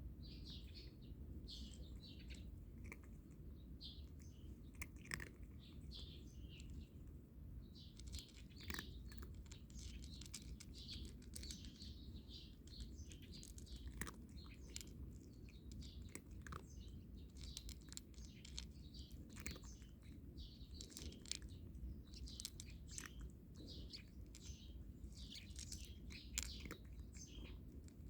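A cat crunching dry kibble, with small birds chirping throughout.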